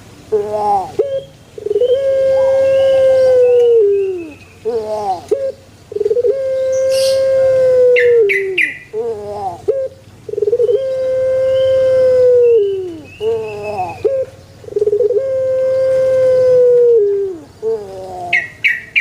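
Puter pelung (Barbary dove, Streptopelia risoria) singing its long call four times at even spacing: a few quick coos, then a long held note that drops away at the end. A few brief high chirps come about halfway through and near the end.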